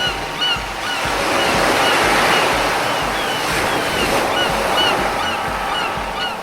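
Ocean surf: a wave swells and washes in, over a steady low beat about twice a second and short high chirps that repeat about as often.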